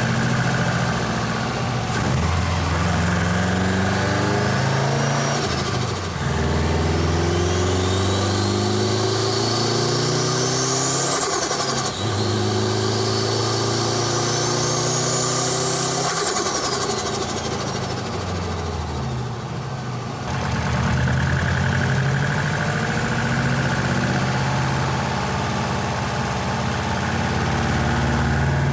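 Subaru WRX's turbocharged EJ25 flat-four, heard from the engine bay, pulling up through the revs several times, with the FP Red turbo's whine climbing high as it spools during two long pulls in the middle. Its blow-off valve is seized, so the boost has nowhere to vent and the turbo flutters when the throttle closes between pulls.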